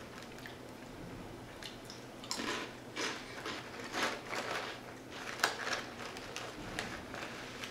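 Close-up chewing and crunching of Calbee baked shrimp chips, light airy puffs, in a run of irregular crisp bites from about two seconds in until about six seconds in.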